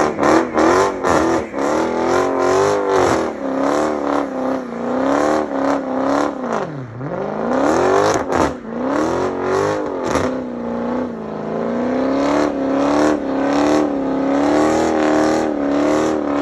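A car engine revving hard again and again, its pitch rising and falling, dropping low about seven seconds in before climbing again, with sharp crackles through it.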